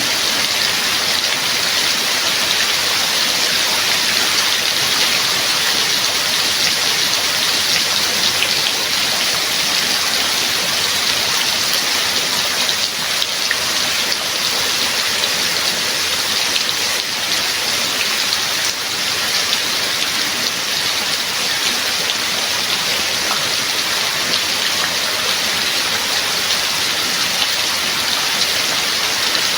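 Steady rain falling: a dense, even hiss made of countless fine drop ticks, with no change in strength.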